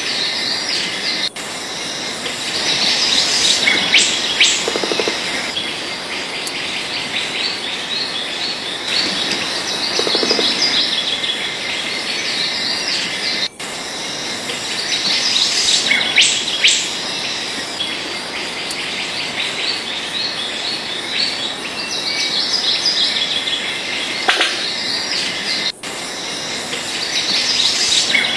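Many small birds chirping and twittering together in a dense, continuous chorus. The sound briefly cuts out three times.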